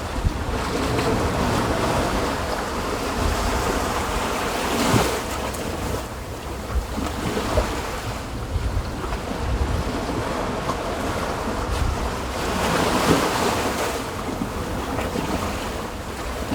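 Ocean waves washing onto a sandy beach, swelling louder about five seconds in and again around thirteen seconds, with wind rumbling on the microphone.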